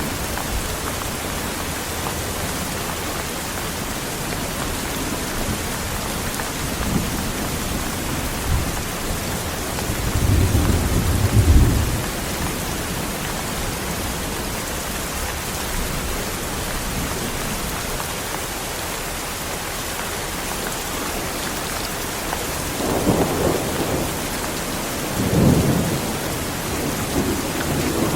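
Heavy rain falling steadily in a thunderstorm, a constant hiss of rain. Thunder rumbles roll through it several times, a longer one in the middle and two close together near the end.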